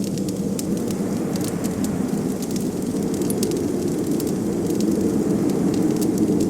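Wood fire crackling with many small, sharp pops scattered irregularly over a steady low rushing noise of blizzard wind.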